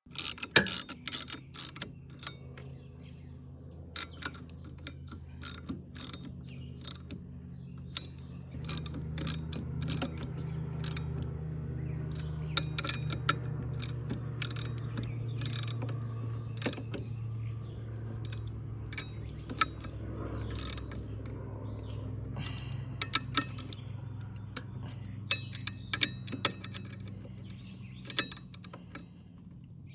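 Clicks and clinks of hand tools and metal parts being worked while a mower clutch is refitted, over a steady low hum that grows louder about eight seconds in.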